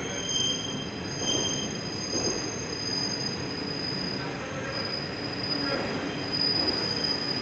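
Passenger coaches of an express train rolling out of the platform, with a low rumble of wheels on rail and thin high-pitched wheel squeal that comes and goes.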